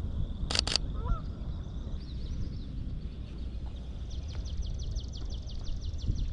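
Geese calling with a few short honks, over a low steady rumble. Two sharp clicks come close together about half a second in, the loudest thing heard, and near the end a small bird sings a fast high trill.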